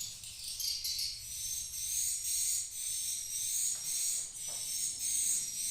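Swiftlets twittering in a nesting house: high, thin chirps repeating a couple of times a second. A steady low hum runs underneath.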